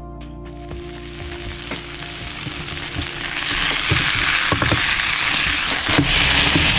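Beef burger patty sizzling as it fries in a pan, the sizzle building after the first couple of seconds and loud from about halfway, with a few light scrapes and taps of a spatula and tongs against the pan.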